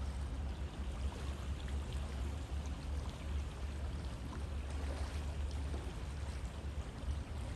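River water flowing steadily: a continuous rushing with a deep low rumble and small scattered splashes.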